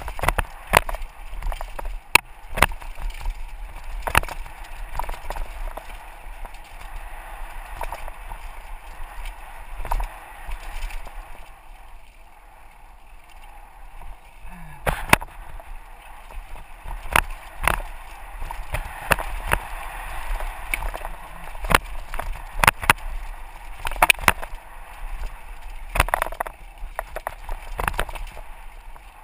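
Mountain bike descending a rough dirt trail: a steady rush of tyres on dirt and wind on the microphone, with frequent sharp clacks and rattles from the bike as it hits bumps. It quiets briefly about halfway through.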